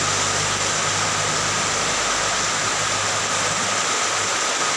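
Steady rushing hiss with a low engine-like hum underneath that drops away about two seconds in.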